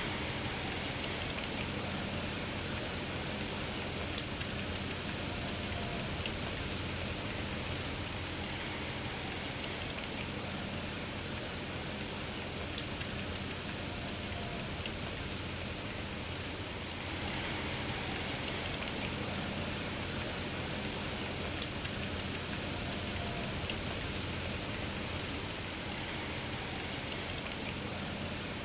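Steady rain falling. Three sharp single ticks stand out, about eight or nine seconds apart.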